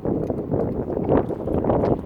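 Wind buffeting the microphone: a loud, rough, gusting rumble that swells about a second in.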